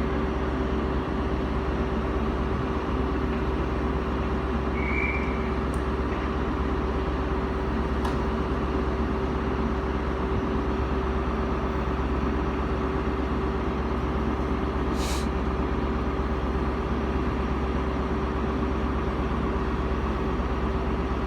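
Class 43 HST diesel power car idling while the train stands at the platform: a steady engine drone with a constant hum. A short high chirp comes about five seconds in, and a brief sharp hiss about fifteen seconds in.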